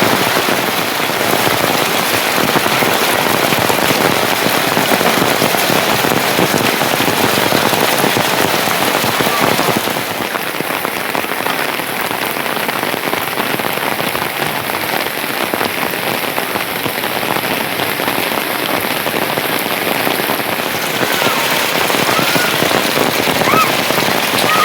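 Steady rain falling, a dense hiss of many drops that eases slightly about ten seconds in and picks up again later. A few faint short high chirps come near the end.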